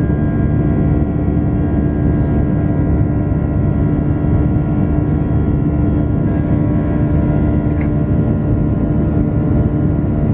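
Airbus A320 cabin noise in flight: the jet engines and the airflow running steadily, heard from a seat inside the cabin as a low rumble with a steady hum.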